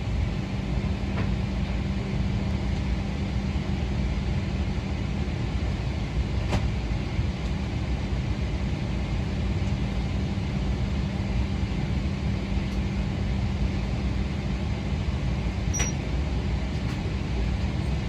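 Steady rushing hum of an airliner cabin's air conditioning inside a Boeing 777-300ER, with a low steady drone underneath. A couple of faint clicks come about six and sixteen seconds in.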